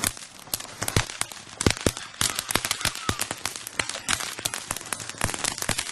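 Firecrackers going off in a rapid, irregular string of sharp pops and cracks, several a second, with a few louder bangs among them.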